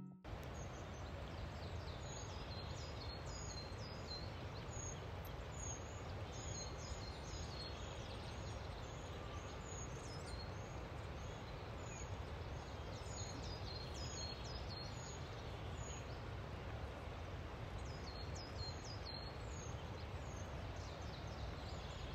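Small birds chirping outdoors: many short, high calls that dip in pitch, coming in clusters over a steady low background noise.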